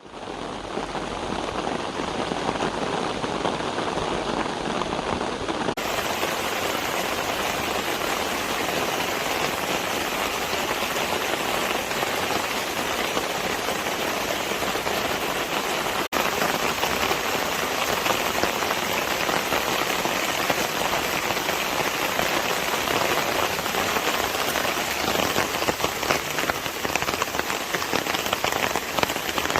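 Steady rain falling, a dense even wash of drops hitting a surface. The sound turns brighter about six seconds in, and there is a momentary break near sixteen seconds, where the recording is cut.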